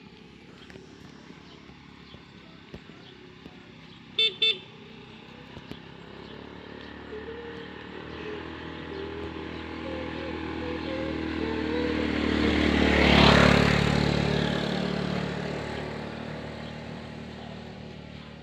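A vehicle horn beeps twice, quickly. Then a motor vehicle's engine approaches, passes close about thirteen seconds in, and fades away.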